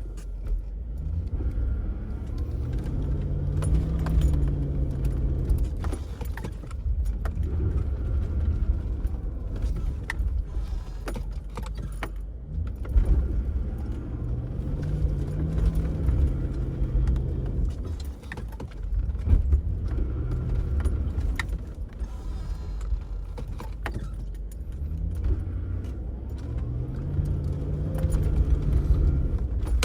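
A vehicle engine pulls through deep, soft snow while stuck. The engine note rises and falls about every twelve seconds over a steady rumble, with scattered clicks and clanks throughout.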